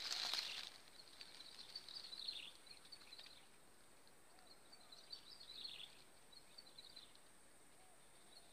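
A small bird twittering faintly in two bursts of quick high chirps over a quiet outdoor background. A brief rustling noise sounds at the very start.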